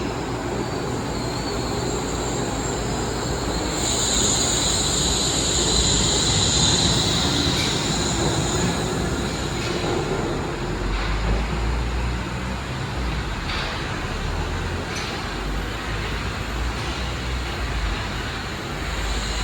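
Wuppertal Schwebebahn suspension railway car running along its overhead rail with a steady rumble, and a high wheel squeal that rises about four seconds in and fades a few seconds later.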